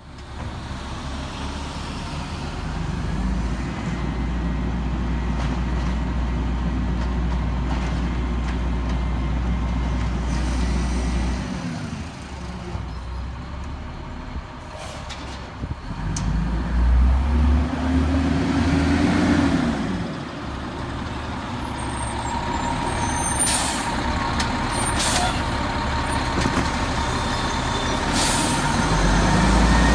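Peterbilt 320 garbage truck's diesel engine running, its pitch rising and falling twice as it revs up and eases off. A steady high whine comes in past the middle, and there are several sharp air-brake hisses near the end.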